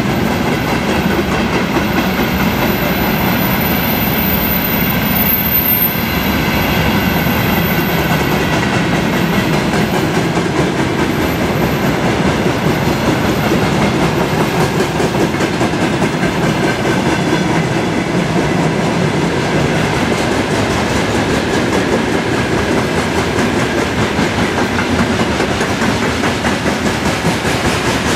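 Long freight train of rail tank cars and covered hopper wagons rolling past at speed, the wheels clattering steadily over the rail joints.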